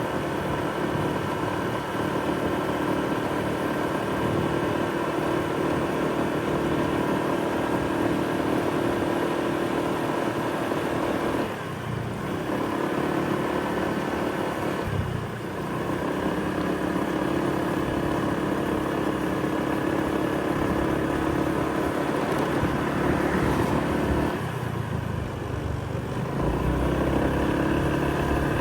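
An engine running steadily at idle, a constant pitched hum that briefly drops away about 12, 15 and 25 seconds in.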